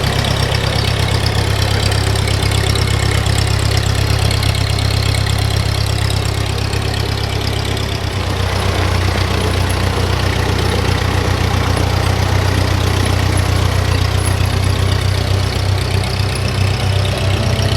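1950 Ford 8N tractor's four-cylinder engine running steadily at idle, with a slight change in its note about eight seconds in.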